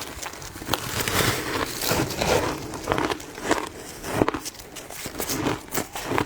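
Ice being bitten and chewed, a dense irregular run of sharp crunches and crackles.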